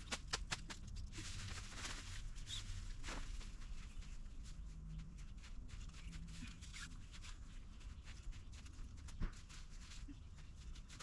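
Fabric rustling with scattered light clicks and taps as a pop-up food tent is handled and folded, over a low rumble, with one sharper tick about nine seconds in.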